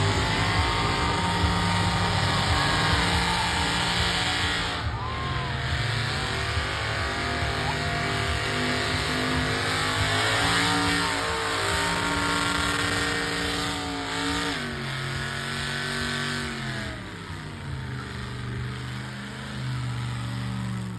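A car engine held at high revs in a burnout, over a steady hiss. About two-thirds of the way through the revs drop, then hold again at a lower pitch.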